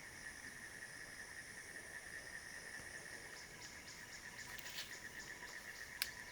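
Insects calling in a steady, high-pitched, rapidly pulsing chorus, with faint ticks and one sharp click near the end.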